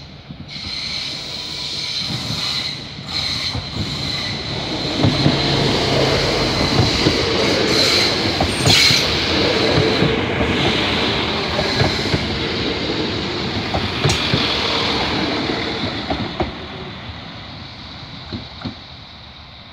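Two coupled PESA Link SA139 diesel multiple units passing by. The rumble of engines and wheels builds over the first few seconds, with wheels clicking over rail joints, then fades as the train draws away. A high steady whine sounds through the first half.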